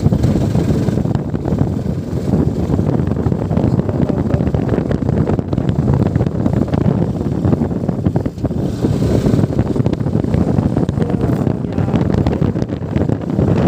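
Wind buffeting the microphone on a moving motorcycle: a loud, steady low rumble.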